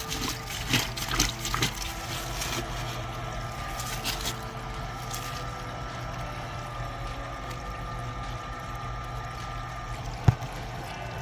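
Water trickling and running from a leak in a groundwater main pipe, over a steady hum. There are a few clicks in the first couple of seconds and a single sharp knock about ten seconds in.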